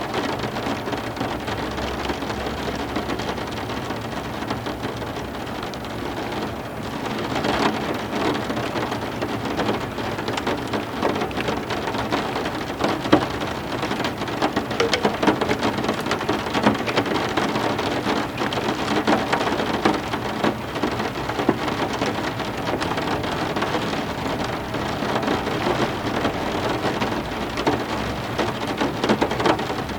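Heavy rain falling steadily in a thunderstorm, with many separate drops striking a surface and thunder in the background. It grows a little louder about seven seconds in.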